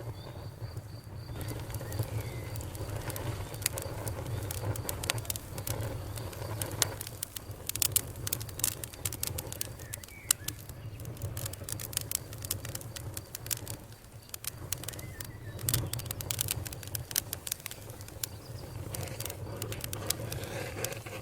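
Wood fire crackling in a fireplace: irregular sharp pops and snaps, in thick clusters at times, over a low steady rumble.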